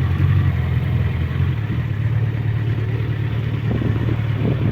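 Suzuki Bandit motorcycle's inline-four engine running steadily on the move, heard from on the bike; its note changes about a second and a half in.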